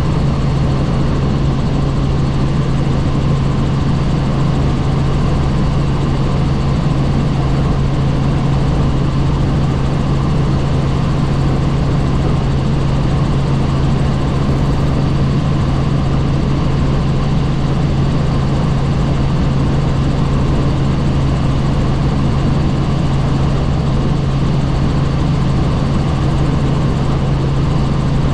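Helicopter in steady flight, heard from on board: a constant low hum over an even rushing noise that does not change.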